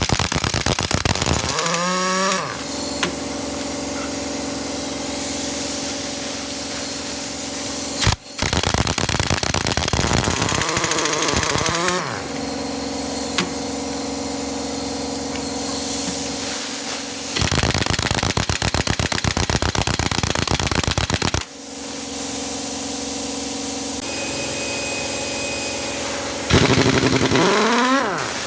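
A power impact wrench hammering in several bursts of a second or more, each time winding down with a falling whine. A steady machine hum carries on between the bursts.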